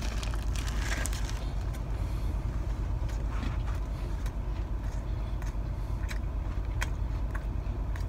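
Crunching bite into a crispy fried chicken sandwich, with its paper wrapper crinkling in the first second or so, then scattered clicks of chewing. Under it, a steady low rumble of the car's idling engine heard from inside the cabin.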